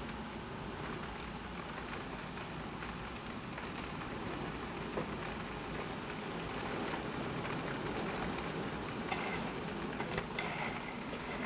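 Heavy thunderstorm rain falling steadily, with a few sharp taps near the end.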